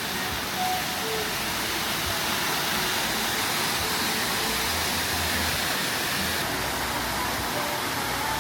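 Rushing water of a waterfall, a loud steady wash of noise.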